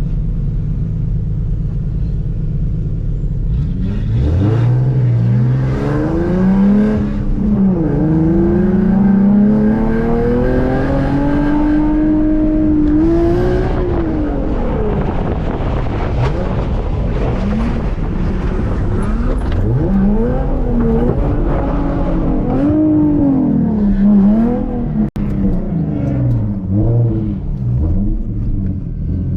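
Drift car's engine running low and steady for a few seconds, then revving hard through a drift run, its pitch rising and falling again and again as the throttle is worked. The sound cuts out for an instant near the end.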